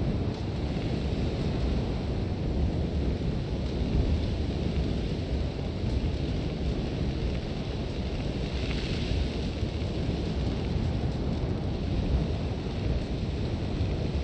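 Sandstorm wind with a steady low rumble and the hiss of blowing sand; the hiss swells briefly about two-thirds of the way through.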